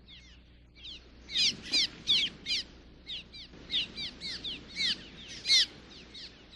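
Cliff swallows calling in rapid, repeated high chirps, each note sliding downward, several a second.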